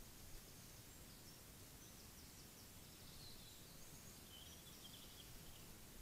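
Near silence: steady microphone hiss, with a distant small songbird singing a few short, high phrases through the middle seconds.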